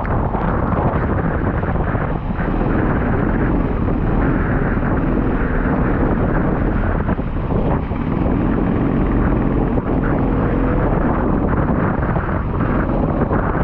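Go-kart engine running at track speed, its note wavering under heavy wind buffeting on the microphone.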